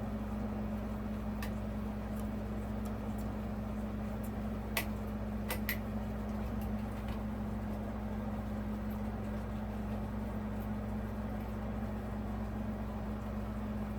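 A steady low hum with a few light clicks and taps of small hardware being handled, the loudest a pair of clicks about five seconds in.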